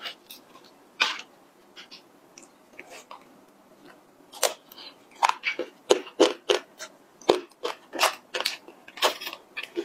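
Close-miked biting and chewing of a crisp chocolate piece: sharp, irregular crunches begin about four seconds in and come every half second or so. Before that there are only a few faint clicks.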